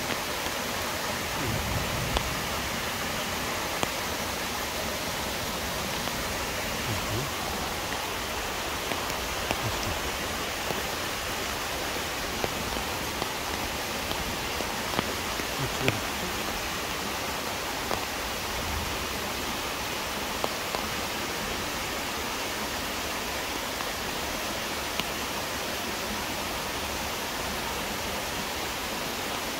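Steady rushing of a mountain waterfall, with scattered light ticks over it.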